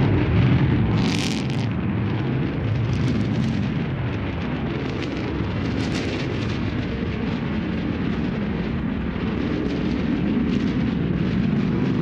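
Roar of New Shepard's BE-3 liquid-hydrogen, liquid-oxygen rocket engine during ascent: a deep, steady rumble broken by sharp crackles, easing a little after about two seconds.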